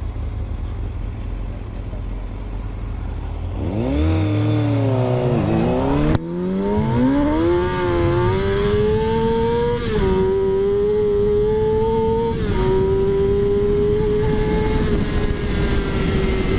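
Vehicle engine idling, then accelerating hard from a standstill: the revs climb steeply and drop back at quick gear changes about five and six seconds in, then pull up again through further upshifts about ten and twelve and a half seconds in.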